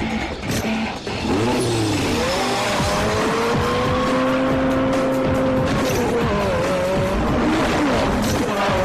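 Film soundtrack of racing cars: engines running hard and tires squealing in long, pitch-bending squeals, with music underneath.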